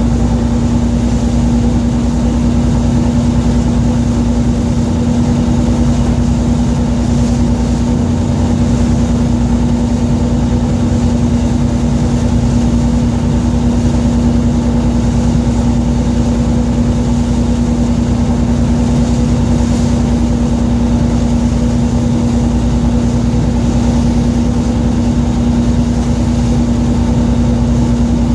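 A fishing boat's engine running steadily: a loud, even low drone with one strong hum that does not change.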